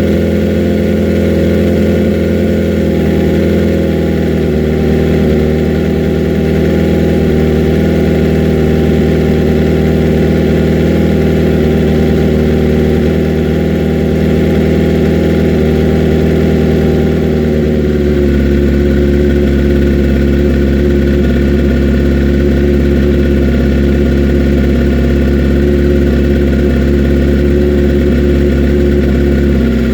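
Suzuki GSX-R 750 inline-four engine idling steadily while it warms up after a hard cold start, its note shifting slightly about two-thirds of the way through.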